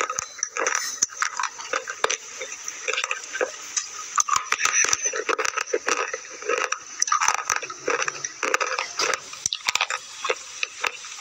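Close-miked crunching of red slate pencil pieces being chewed: a dense, irregular run of sharp crackles and grinding crunches.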